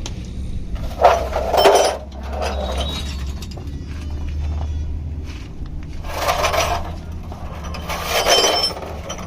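Metal clinks and clanks of tools and parts being handled during truck gearbox removal, loudest about a second in and again near the end, over a low steady hum.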